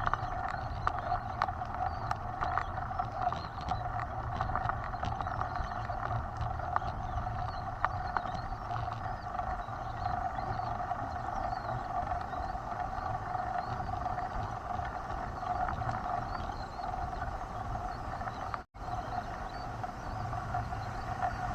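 Mountain bike being ridden on a trail: a steady hum from the tyres and drivetrain with rumble beneath, and many small clicks and knocks over the first several seconds.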